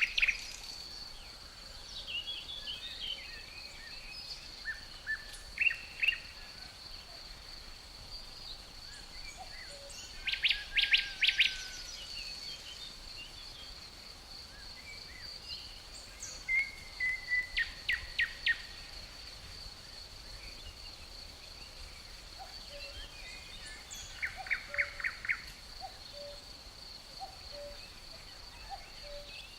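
Forest ambience: a steady high cricket trill runs throughout, while a songbird sings short, rapid trills three times, about ten, seventeen and twenty-four seconds in, among scattered softer chirps.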